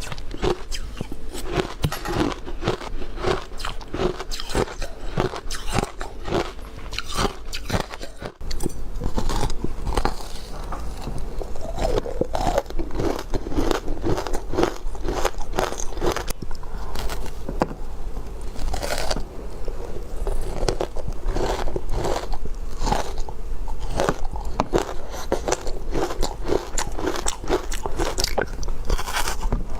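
Close-miked ice being bitten and chewed: continuous rapid crunching and crackling of ice cubes between the teeth, with no pause.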